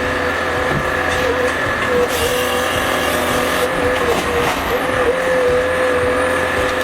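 Forestry harvester running steadily, its engine tone holding a high even pitch that dips briefly several times.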